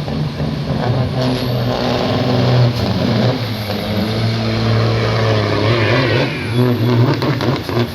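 Big diesel semi-truck engines running hard on a drag race pass: a loud, steady low drone.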